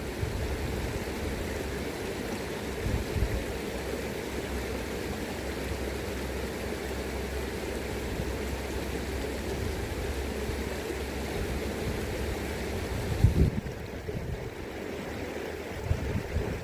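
River current rushing steadily, with gusts of wind buffeting the microphone now and then; the strongest gust comes about 13 seconds in.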